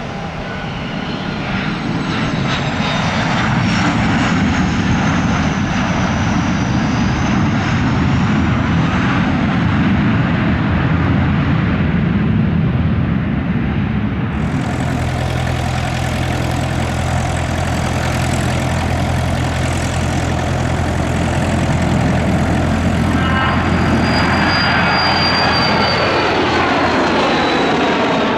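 Airplane engines running loud and steady, with a high whine that bends in pitch. The sound changes abruptly about halfway through, and near the end a high whine falls in pitch.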